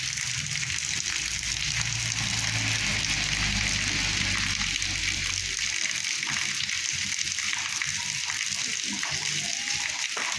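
Heavy rain falling steadily, a dense even hiss, with a low rumble underneath during the first half.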